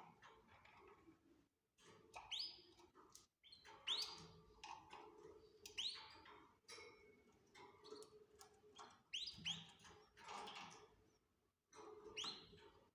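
Canaries giving short, sharp rising chirps, repeated every second or two.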